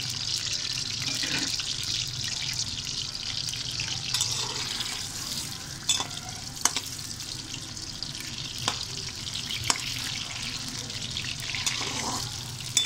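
Potato chunks frying in hot ghee in a metal wok: a steady sizzle, with a few sharp clicks of a metal spoon knocking the wok as they are stirred, mostly in the second half.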